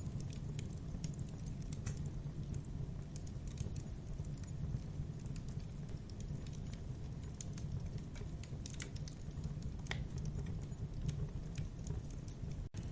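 Campfire crackling: a steady low rumble of burning wood with irregular sharp pops and snaps throughout.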